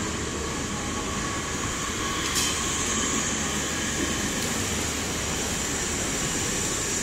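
Garib Rath express train rolling into a station: a steady rumble of the coaches with a high whine over it. A sharp click comes about two and a half seconds in, after which the whine grows stronger and the sound slowly gets louder.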